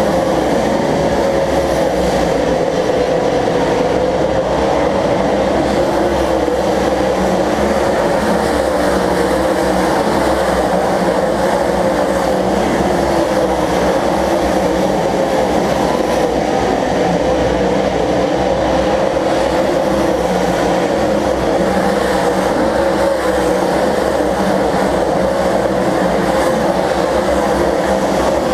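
A pack of stock cars racing around an oval track, their engines making a loud, dense, continuous drone whose pitch wavers gently as the field circles.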